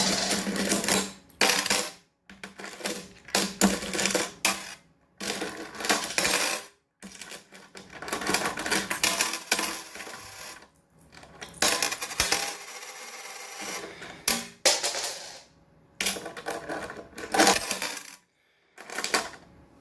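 Metal coins clattering and jingling as an African grey parrot tosses them around a table, in repeated quick bursts with short pauses between.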